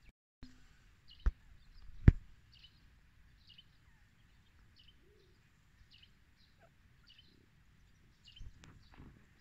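A small bird chirping in short high notes repeated roughly once a second. Two sharp knocks come about one and two seconds in, the second the loudest.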